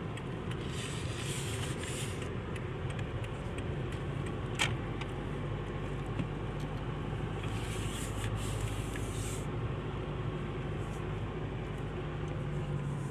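Isuzu vehicle being driven on the road, with steady engine hum and tyre noise. A single short click about four and a half seconds in.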